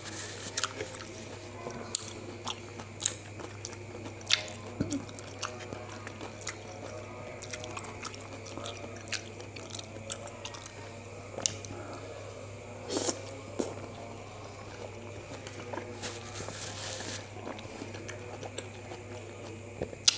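Close-miked eating: wet chewing and biting of a peeled Hongkong orange coated in peanut sauce, with many short smacking mouth clicks, over a steady low hum.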